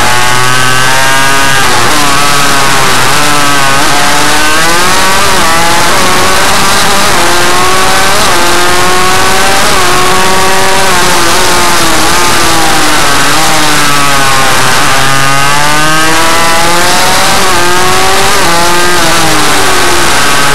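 Suzuki RM 85's single-cylinder two-stroke engine, loud, its pitch rising and falling several times as the bike accelerates and slows, with a strong high rise about three-quarters of the way through.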